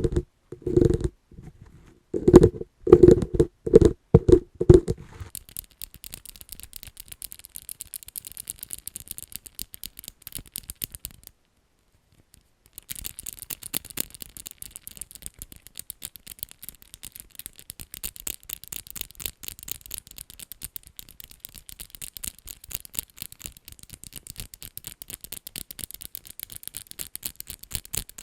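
ASMR tapping on an object: loud, hollow knocks for about the first five seconds, then fast, light tapping and scratching that goes on with a short pause about twelve seconds in.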